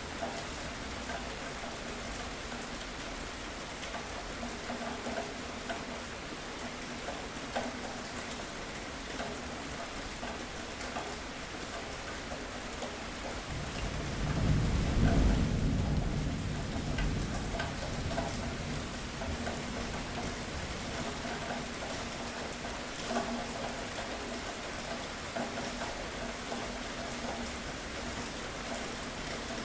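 Steady rain falling, with a low roll of thunder swelling about halfway through, peaking and fading away over a few seconds.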